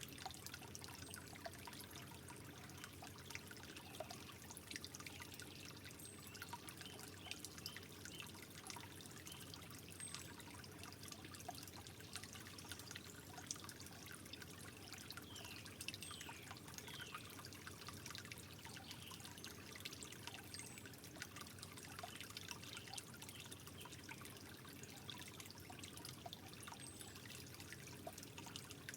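Water trickling softly in a steady, gentle flow, with many small drips and splashes.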